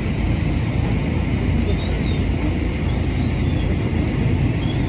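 Steady rumble of road traffic in a traffic jam, vehicle engines and tyres running together without a break.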